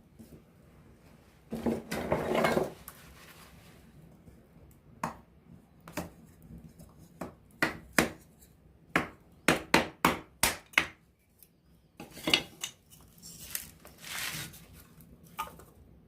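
Wood campfire crackling: irregular sharp pops and snaps, bunching into a quick run of pops in the middle, with a longer, louder burst of crackling about two seconds in.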